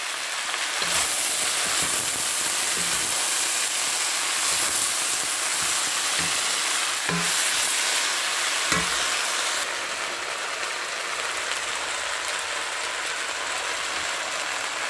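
Ground chicken, cabbage, carrots and peas sizzling in a hot pan, on the heat left in it just after the burner is switched off, while a wooden spatula stirs them with a few short knocks against the pan. The sizzle eases a little about ten seconds in.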